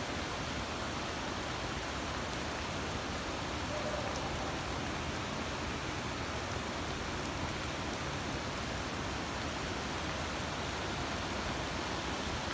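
Rain falling onto floodwater that is running across a road: a steady, even hiss of water.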